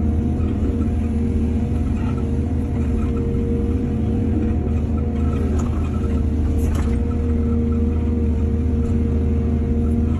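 Excavator's diesel engine running steadily under load, with a brief sharp knock about seven seconds in.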